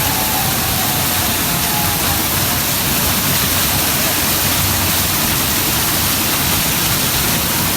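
Large waterfall's falling water making a loud, steady rushing noise with no breaks.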